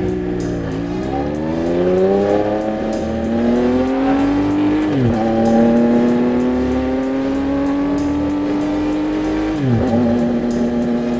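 2025 CFMoto 675SS inline-three motorcycle engine with an aftermarket exhaust, accelerating hard through the gears. After a brief dip near the start, the pitch climbs steadily, then drops sharply at an upshift about five seconds in. It climbs again and drops at a second upshift near the end.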